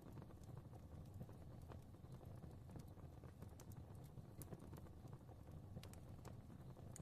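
Fireplace fire crackling softly: a faint, steady low rumble of flames with irregular sharp pops and crackles scattered through it.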